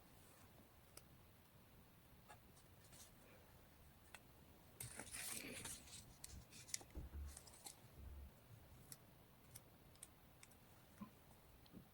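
Quiet paper-crafting sounds at a desk: scattered small clicks and taps, with a brief scratchy rustle of paper about five seconds in.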